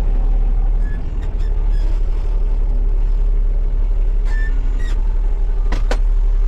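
Heavy dump truck's diesel engine running with a steady low rumble, with a few short sharp knocks about a second in, around four and a half seconds in, and twice near the end.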